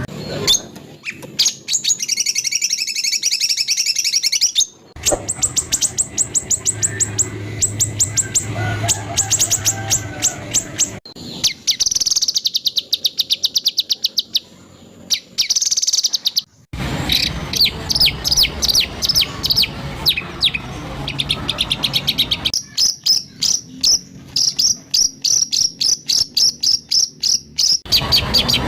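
White-rumped shama (murai batu) song: rapid, harsh trains of repeated high notes, several recordings spliced together with abrupt cuts between them.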